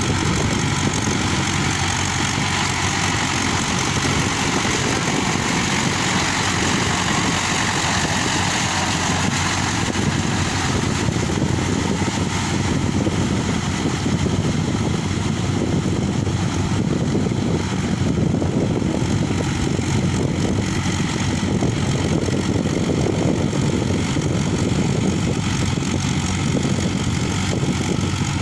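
Old Mahindra tractor's diesel engine running steadily with an even low throb that does not rise or fall.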